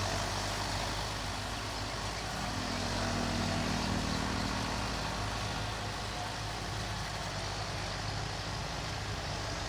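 Belarus tractor's diesel engine running steadily under load, swelling briefly a few seconds in.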